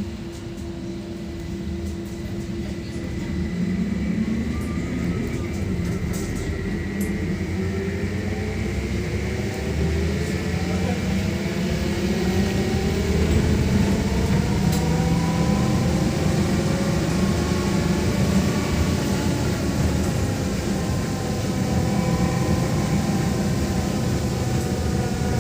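VMZ-5298.01 Avangard trolleybus heard from on board, pulling away and gathering speed. Its electric traction drive gives a whine of several tones that rise slowly together over a low road and body rumble, and the whole sound grows louder over the first ten seconds or so.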